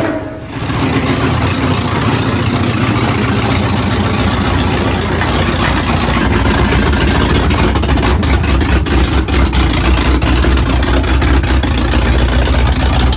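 Car engine running at a loud, steady idle, swelling to full level within about the first second.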